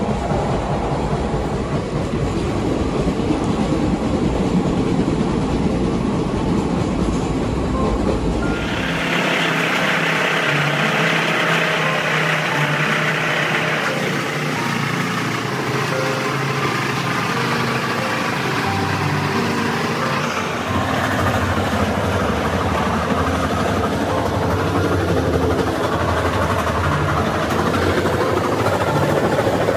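Steady running noise of an Indian Railways passenger train. Heavy low noise gives way abruptly to a brighter hiss about 8 seconds in, and the sound shifts again about 20 seconds in.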